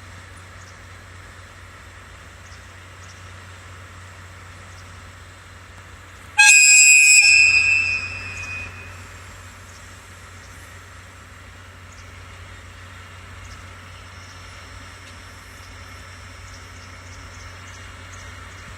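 A loud, high-pitched departure whistle sounds once about six seconds in, lasting about a second and a half before fading. It plays over a steady low engine hum from the waiting train.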